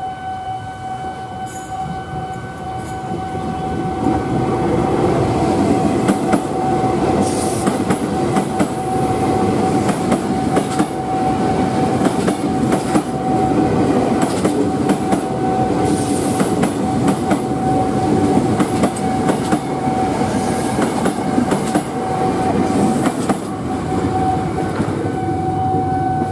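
A KRL commuter electric train passing close by at speed, its wheels clacking over the rail joints. A steady tone from the level crossing's warning alarm sounds under it the whole time.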